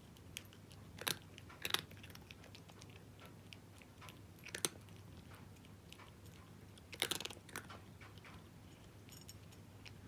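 A cat crunching dry kibble: sharp crunches come in small clusters, a few seconds apart.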